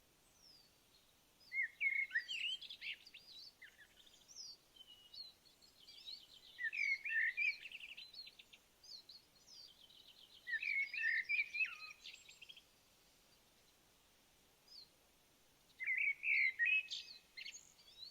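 Small bird singing in quick chirping phrases: four louder bursts a few seconds apart, with fainter chirps between.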